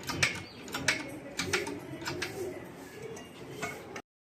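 A pigeon cooing, a low wavering call, over a scatter of sharp taps and clicks from workshop handling. The sound drops out completely for a moment near the end.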